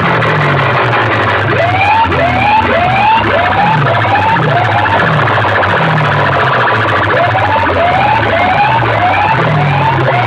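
Large DJ sound-box rig at very high volume playing siren-like electronic effects: quick rising sweeps in clusters of two or three over deep bass notes that slide downward.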